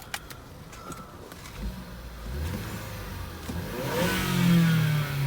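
Ford Escape's turbocharged four-cylinder engine comes up in revs about two seconds in, peaks about four seconds in and then drops back. A few light clicks come just before it.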